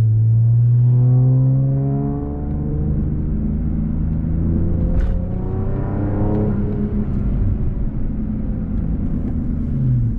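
Infiniti Q50's V6 accelerating through the gears with aftermarket downpipes and a resonated exhaust, heard from inside the cabin. The engine note rises, drops at an upshift about two seconds in, climbs again, then levels off past the middle.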